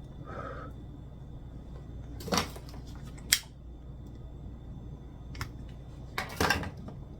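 Household objects being handled: a few separate knocks and clatters, the sharpest one about three seconds in and a longer double clatter near the end, over a steady low hum.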